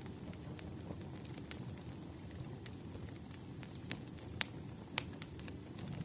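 Burning firewood crackling: a low steady rumble of the fire with scattered sharp pops and snaps, the loudest two a little past four and five seconds in.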